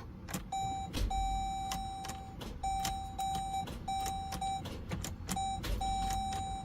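Dodge Durango's dashboard warning chime beeping erratically in uneven on-off tones of varying length, mixed with repeated sharp clicks. The electrical system is glitching from low battery voltage, as the gauges are jumping.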